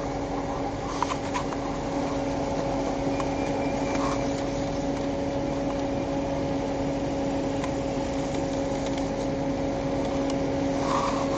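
Steady hum inside a patrol car's cabin: vehicle running with the ventilation fan on, carrying a constant low tone. A few faint clicks come about a second in.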